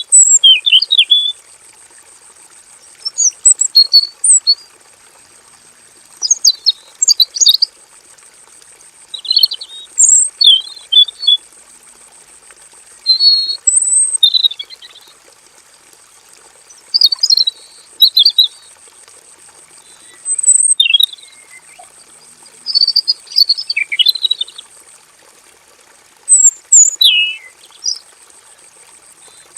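Male red-billed leiothrix singing: about nine short warbling phrases, each a second or two long, repeated every few seconds.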